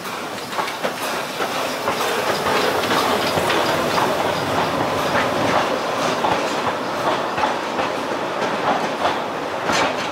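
Narrow-gauge train running close by, its wheels clicking over the rail joints. The sound grows louder over the first couple of seconds, then holds steady.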